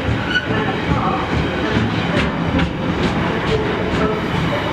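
Train running on rails, a steady rumble with a few sharp clicks of wheels passing over rail joints about halfway through.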